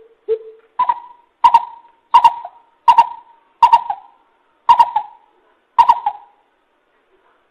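Coucal (bìm bịp) giving its hooting call: a series of short, hollow notes about one every 0.7 s. The first notes are lower, then the call steps up in pitch and stops about six seconds in.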